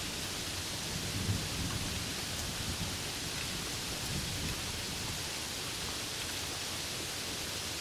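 Steady rain hiss with low thunder rumbling in the first half, fading after about four seconds in.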